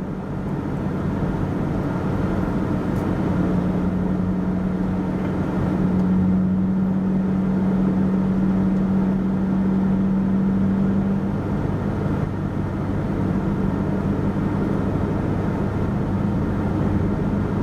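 Car engine and road noise heard from inside the cabin while driving slowly: a steady low hum with a droning tone.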